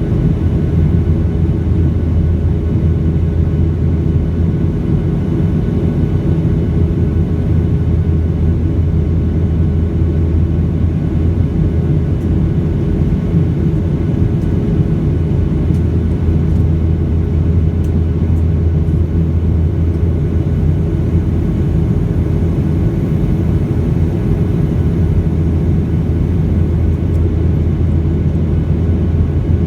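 Boeing 737 in flight, heard from inside the cabin: a steady drone of jet engines and airflow, with a low hum and a few constant tones.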